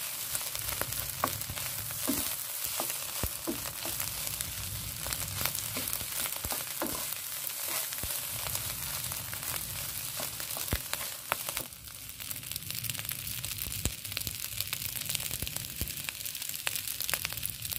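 Fried rice with egg and spring onion sizzling in a frying pan as it is stirred, with scattered sharp clicks of the stirring over a steady sizzle.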